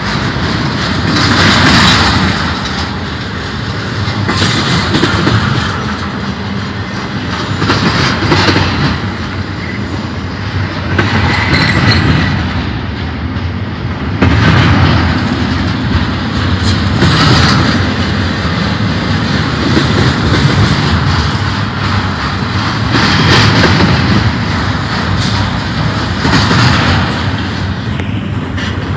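Double-stack intermodal freight train rolling past close by: a steady rumble with steel wheels clacking on the rails, swelling and fading about every three seconds as the cars go by.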